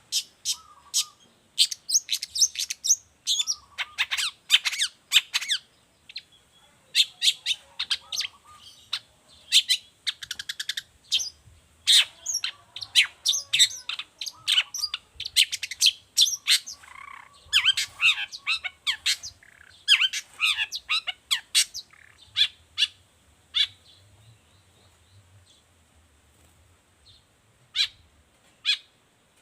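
Long-tailed shrike (cendet) singing actively in a rapid, varied string of sharp chattering notes, which thin out to scattered single notes over the last several seconds.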